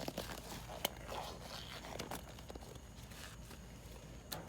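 Faint rustling with a few scattered sharp clicks, most of them in the first two seconds and one near the end.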